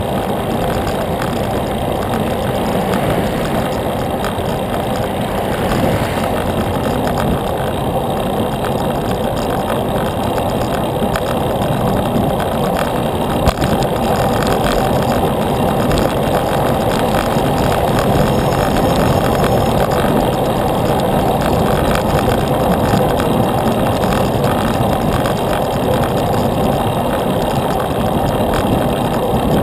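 Steady wind and road noise from a bicycle on the move, with one sharp click about halfway through.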